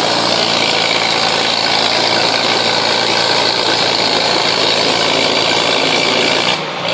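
Farm tractor engine working hard under full load, dragging a weight sled. It runs loud and steady, then drops off sharply near the end as the pull stops.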